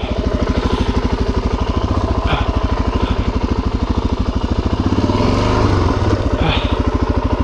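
Suzuki DR-Z400's single-cylinder four-stroke engine running at idle with an even, rapid thumping beat. It swells briefly about five seconds in.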